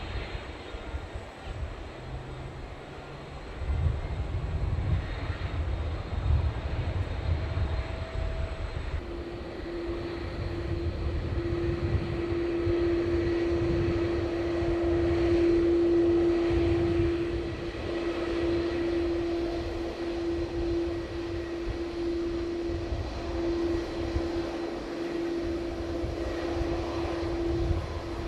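Jet airliner engines running as the aircraft passes, with a low uneven rumble throughout. A steady engine tone comes in about a third of the way through, and the overall sound swells to a peak about midway, then eases a little.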